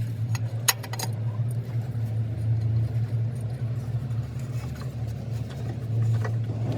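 Diesel truck engine running steadily with a low, even drone. A few light clicks come just under a second in.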